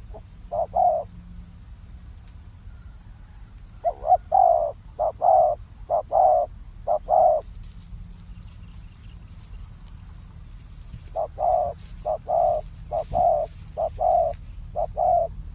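Spotted dove cooing in repeated phrases of short coos: a brief phrase at the start, a longer one about four seconds in, and another from about eleven seconds in.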